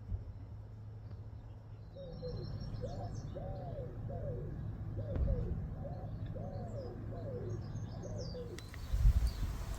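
A dove cooing in a repeated, rhythmic series of low, rounded calls, with small birds chirping faintly higher up. Near the end the sound changes abruptly, with a few low knocks.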